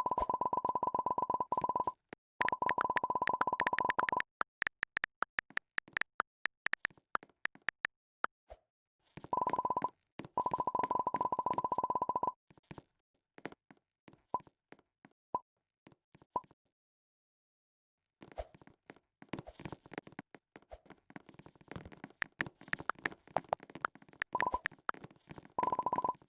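A steady, dial-tone-like electronic beep held for a few seconds at a time and chopped by clicks, alternating with stretches of irregular crackling clicks and a short silent gap a little past the middle.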